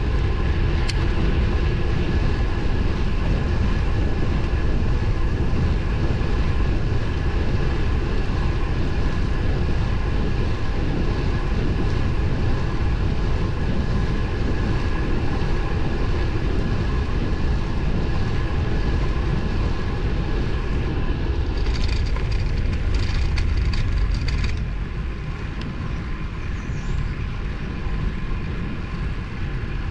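Wind rushing over the microphone of a moving road bike, with steady tyre and road noise. A short run of clicks comes about two-thirds of the way in, after which the rushing eases slightly.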